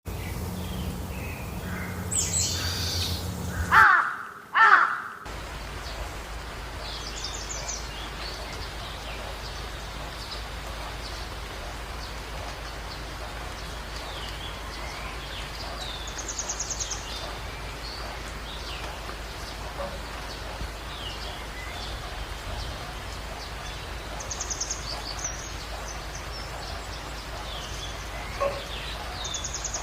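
Wild birds calling and chirping over a steady outdoor background hiss, with two loud calls about four to five seconds in and short high chirps scattered through the rest.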